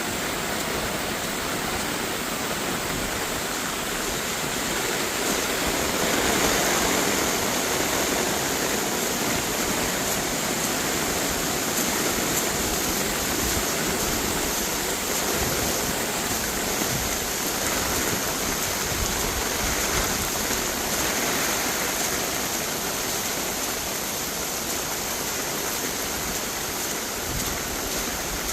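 Floodwater rushing steadily, swelling a little about six seconds in.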